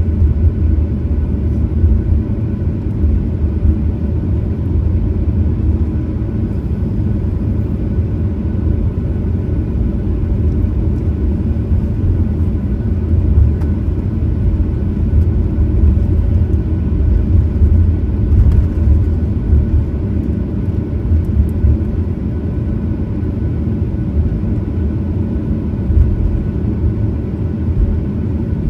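Steady cabin noise inside a Boeing 737-900ER: a loud, low rumble from the airframe and its CFM56-7B engines, with a faint steady whine above it.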